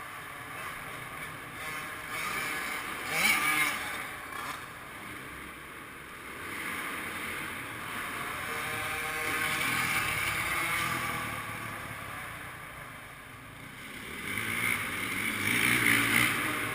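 Motocross bike engines revving, rising and falling as riders go round the track, loudest about three seconds in and again near the end.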